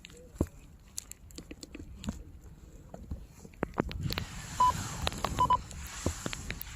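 Short electronic beeps, one about halfway through and a quick double beep a second later, over scattered clicks and crunching.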